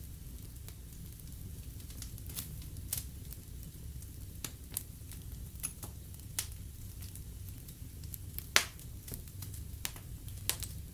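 Fire in a fireplace crackling, with irregular sharp pops over a low, steady rumble of the flames; the loudest pop comes about two-thirds of the way through.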